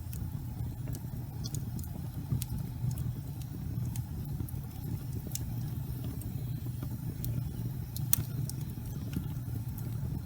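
Gas fireplace flames burning with a steady low rumble, with scattered sharp crackles, the loudest about eight seconds in.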